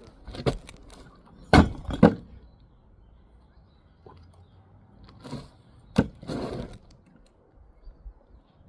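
A series of sharp knocks and clatters: two loud ones close together about a second and a half in, then another cluster around six seconds, with quiet gaps between.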